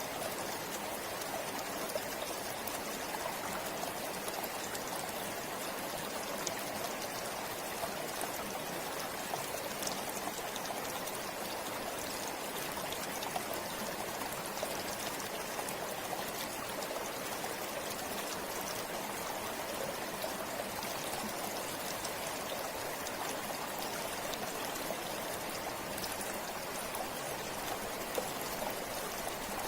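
A river flowing steadily over stones, a continuous rushing hiss with small splashes and trickles throughout.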